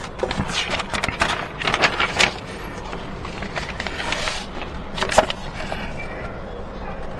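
Irregular clicks, knocks and scrapes of hard objects being handled, thickest in the first five seconds, then a steadier background noise.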